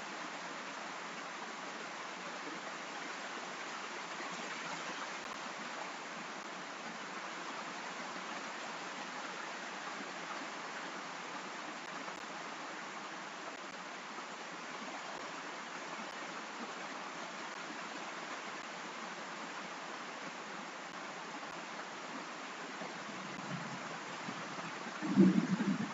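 Steady, even hiss of falling rain. A short, louder low sound breaks in about a second before the end.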